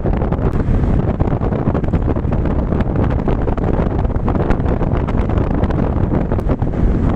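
Wind buffeting the microphone of a moving KuKirin G2 electric scooter, a steady heavy rumble with a few faint clicks.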